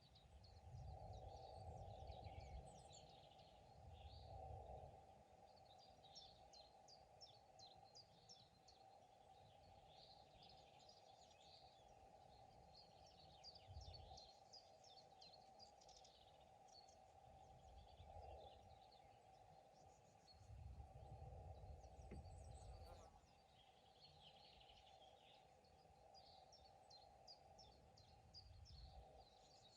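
Faint songbirds chirping and trilling in quick repeated phrases, several birds overlapping, over a steady low hum, with a few soft low rumbles swelling and fading.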